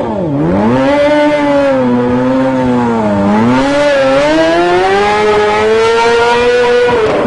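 Stunt motorcycle engine revving under throttle, its pitch dipping twice and then climbing steadily for several seconds before dropping off near the end.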